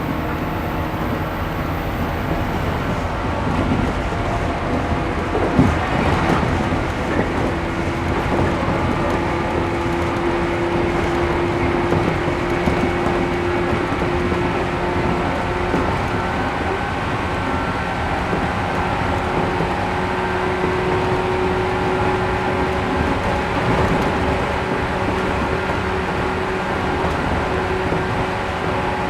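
Interior running sound of a resistance-controlled 113 series 1500 subseries electric train at speed: a steady rumble of wheels on rail with a motor hum. There is a single knock about six seconds in.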